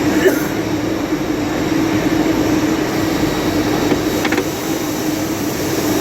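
CNC lathe running in a machine shop: a steady mechanical hum with an even hiss, a couple of faint light clicks just after the start and about four seconds in.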